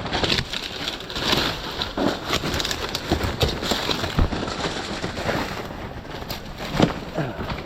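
Footsteps and crackling rustle of people pushing through dense brush and dry leaves, with irregular snaps and knocks.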